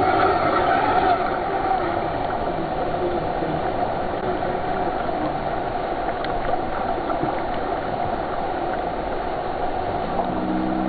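Rushing, gurgling water, steady throughout. About ten seconds in, a short pitched sound slides downward over it.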